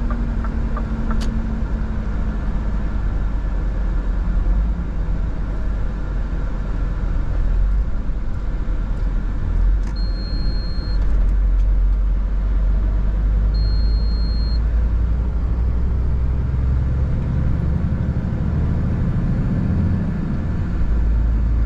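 Scania R 450 truck's 13-litre inline-six diesel engine running under way with road noise, a steady low rumble. Two short high beeps come about ten and fourteen seconds in.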